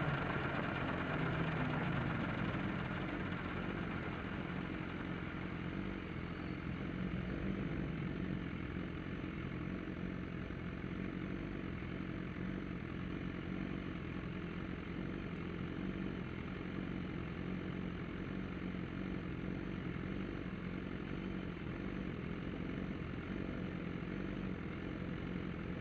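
Motorcycle engine idling steadily, with no revving; it is a little louder in the first couple of seconds, then holds an even level.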